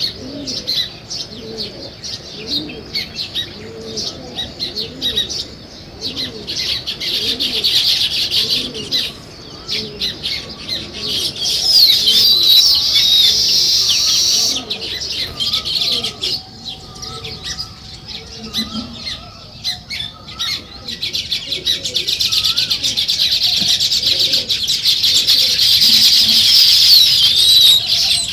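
Sparrows chirping in a dense, busy chorus that swells and thins in waves. It is loudest a little before the middle and again near the end, with a thinner stretch in between where a few lower warbled notes stand out.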